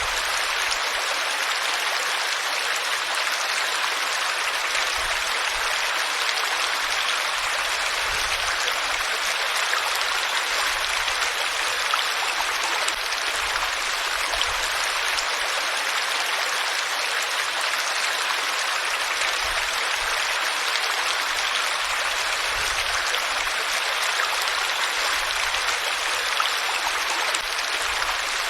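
Flowing water of a stream, a steady rushing, even and unbroken.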